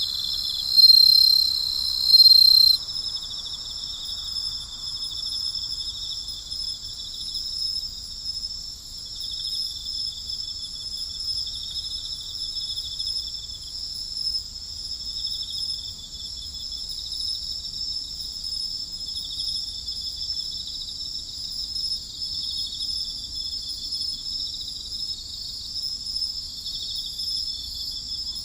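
A night chorus of crickets and other insects, a steady, finely pulsing shrill chirring. In the first three seconds a louder, higher trill rises over it twice, then stops.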